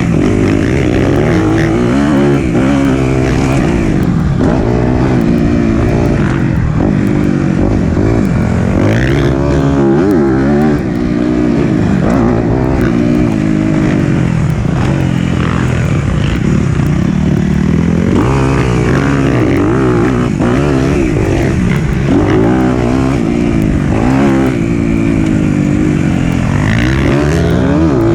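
Four-stroke single-cylinder dirt bike engine revving up and easing off over and over as it is ridden along a trail, recorded close to the bike.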